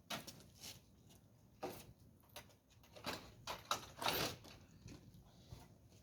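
Scattered faint knocks and scrapes of wooden bed-frame pieces being pulled apart by hand, with a small cluster of knocks around the middle.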